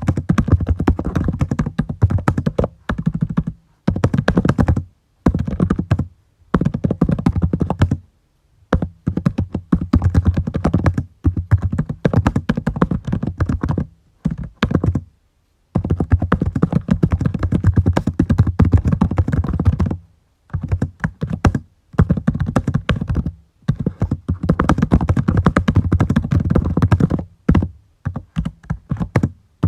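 Typing on a computer keyboard: runs of rapid keystrokes lasting a few seconds each, broken by brief pauses.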